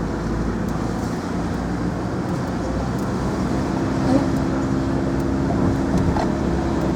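Car being driven through city streets: steady engine hum and road noise heard from inside the moving car, with a steady engine tone coming in about halfway through.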